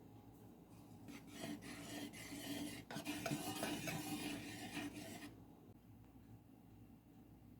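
Rasping, rubbing sounds of food preparation, made of many short scraping strokes. They start about a second in and stop a little after five seconds.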